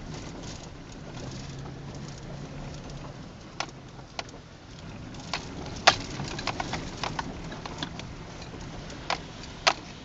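Low, steady rumble of a car driving slowly, heard inside the cabin, with a scattering of sharp, irregular clicks and taps, most of them in the second half.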